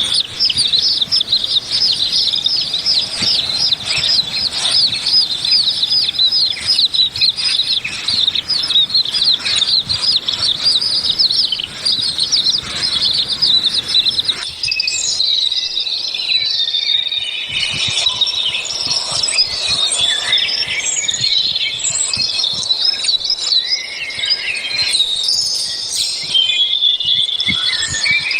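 Many birds chirping at once in a dense, rapid chorus of high calls; about halfway through the chatter thins into more scattered, varied calls.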